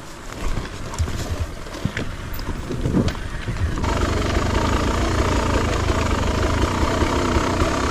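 Dirt bike engine: a few irregular knocks and rattles, then about four seconds in the engine comes in and runs steadily.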